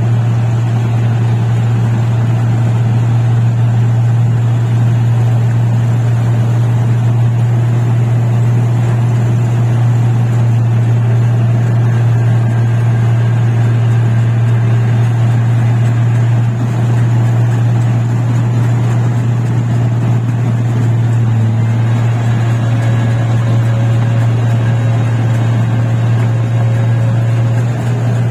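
Rice combine harvester's engine running steadily under load, a loud continuous low drone.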